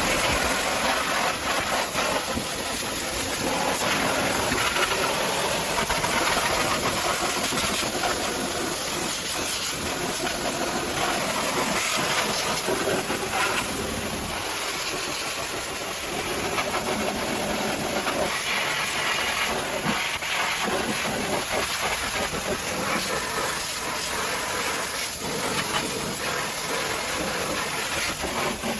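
High-pressure washer spraying water in a steady hiss.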